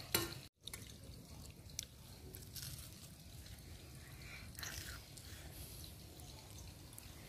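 Faint chewing and biting of a crisp fried pakora, soft crunches and mouth clicks over low background noise. A sharp click comes right at the start, and the sound cuts out completely for a split second just after.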